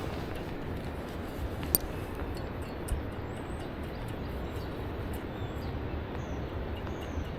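Steady rushing outdoor noise, heaviest in the low range, with faint high bird chirps scattered through it. A sharp click sounds just under two seconds in and a lighter one about three seconds in.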